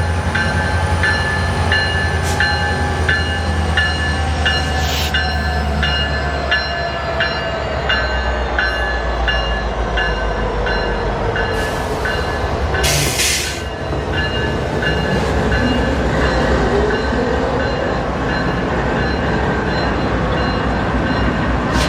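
Train rolling past, wheels clicking regularly over the rails about twice a second. A deep rumble eases after about eight seconds, with a steady high ringing tone throughout.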